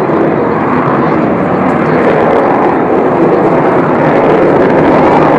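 Avro Vulcan XH558's four Rolls-Royce Olympus turbojets roaring as the bomber flies past, the sound growing slowly louder as it comes closer.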